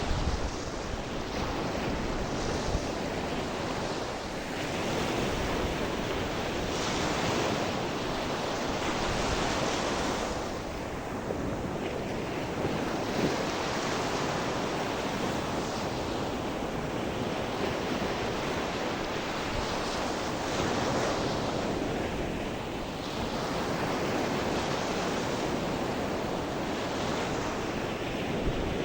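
Sea surf: waves breaking and washing up the shore in a steady rush that swells and eases about every six seconds.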